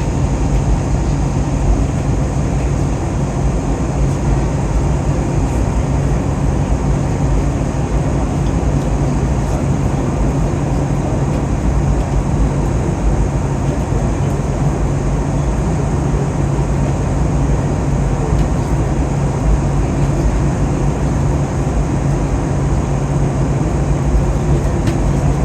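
Steady airplane engine and airflow noise heard inside the cabin in flight, with a constant low hum beneath the rushing noise.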